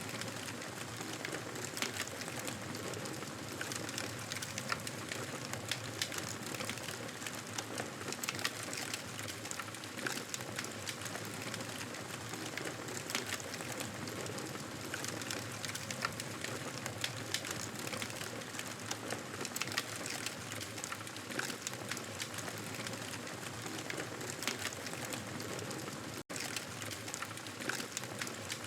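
Wood fire crackling in a fireplace: a steady hiss scattered with frequent small pops and snaps. The sound cuts out for a split second near the end.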